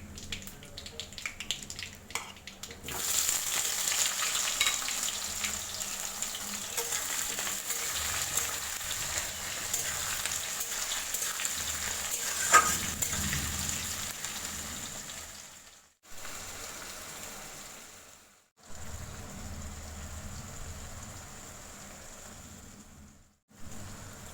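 Food sizzling in hot oil in a pan while being stirred; the sizzle jumps up sharply about three seconds in, with a single sharp clink of a utensil partway through. The sound cuts out suddenly a few times near the end.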